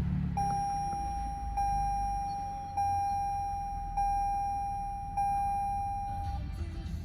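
Toyota Highlander dashboard warning chime, a steady electronic tone struck five times about a second apart and then stopping, over the low hum of the freshly started 3.5 L V6 idling.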